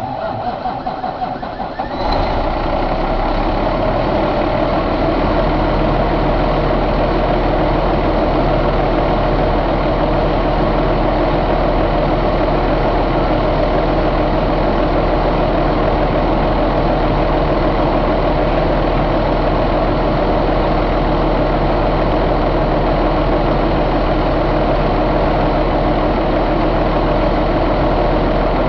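2005 Cummins ISX inline-six diesel engine starting, catching fully about two seconds in, then idling steadily.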